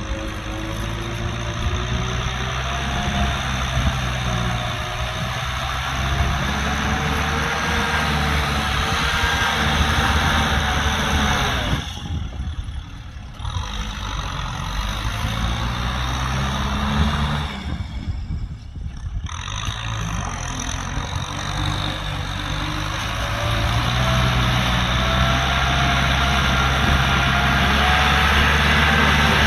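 Kubota M6040SU tractor's diesel engine running, with a whine that wavers up and down in pitch. The sound thins out briefly twice, about twelve and eighteen seconds in.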